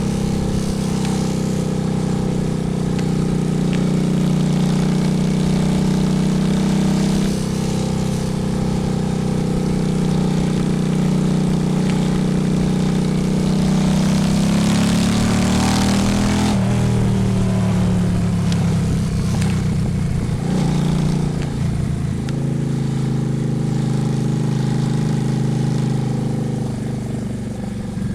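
Honda Shadow V-twin motorcycle engine running under way, with wind noise on the microphone. About halfway through its pitch climbs as it accelerates, with the wind hiss growing, then drops suddenly at a gear change.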